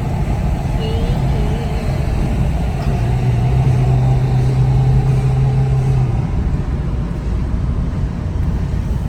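A car driving, with steady engine and road rumble and a steadier low hum for a few seconds in the middle.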